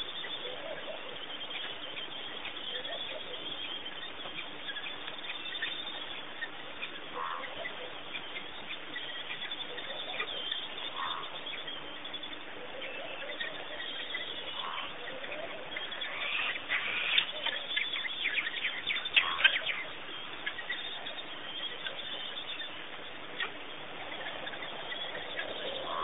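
Scattered short bird calls over a steady background hiss, with a louder stretch of rapid chirping and clicking about two-thirds of the way through.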